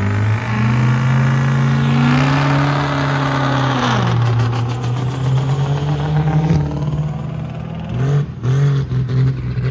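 Diesel drag truck engine running, its pitch rising and then dropping around the middle, with a few short throttle blips near the end.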